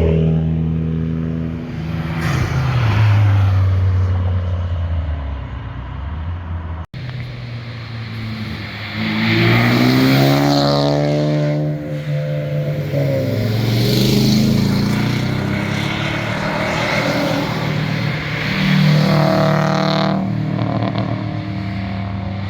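Several cars driving past in turn, each engine revving up through the gears and dropping away as it passes. The sound breaks off abruptly about seven seconds in, then more cars accelerate past.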